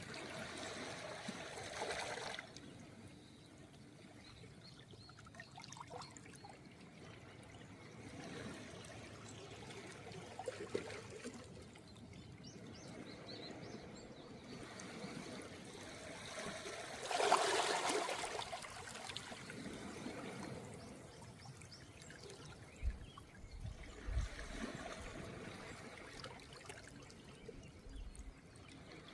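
Small, calm waves washing up on a beach of round pebbles, each surge followed by water trickling back through the stones. The biggest wash comes a little past the middle, with smaller ones between.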